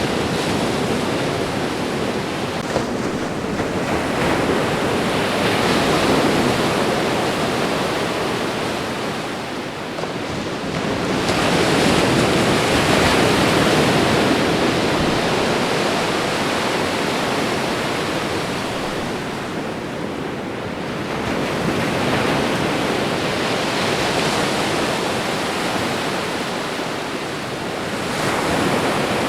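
Ocean surf washing onto a shore: a continuous rush of water noise that swells and eases every several seconds as each wave comes in and draws back.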